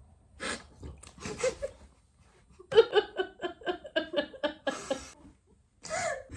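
A young woman laughing: short breathy bursts at first, then a fast run of ha-ha-ha about three seconds in that lasts about two seconds.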